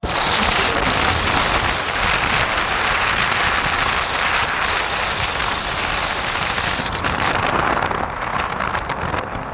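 Steady rush of wind noise on the microphone with road and engine noise from a moving motorcycle, easing slightly near the end.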